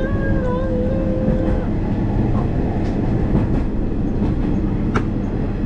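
Steady rumble and clatter of a Sanriku Railway diesel railcar running, heard from inside the carriage. A short tone rises and wavers in the first second or so, and there is a single sharp click about five seconds in.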